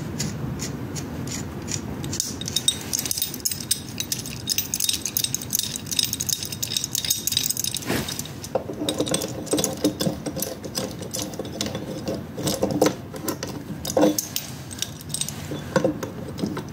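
Metal tools and parts clinking and rattling in hand work, a busy run of small light knocks with some ringing. About halfway through, the clinks take on a lower, fuller ringing tone.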